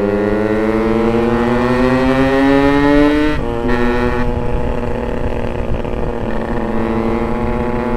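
Yamaha RX-King's two-stroke single-cylinder engine pulling under acceleration while riding, its pitch rising steadily, then dropping at a gear change about three seconds in and running on at a steadier speed.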